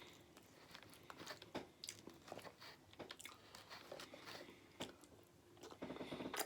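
Faint close-miked chewing: soft wet mouth clicks and smacks of someone eating food.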